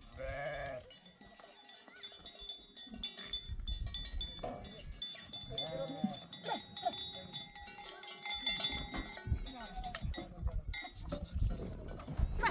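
Sheep bells clinking continuously as a flock of sheep moves, with several sheep bleating now and then.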